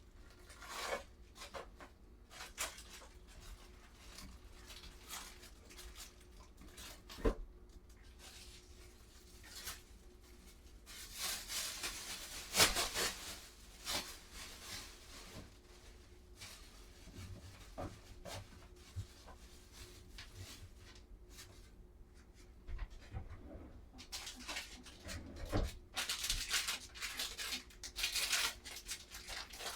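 Household cleaning noises in a kitchen: scattered knocks and clicks of things being handled and set down, with two longer stretches of rustling, one around the middle and one near the end.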